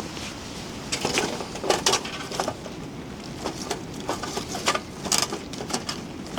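Irregular clicks, taps and rustles of gear being handled at close range, in two clusters, over a steady hiss of rain.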